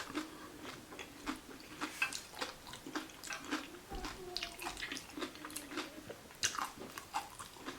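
A person chewing a mouthful of veggie salad taco close to the microphone, with irregular wet mouth clicks and smacks.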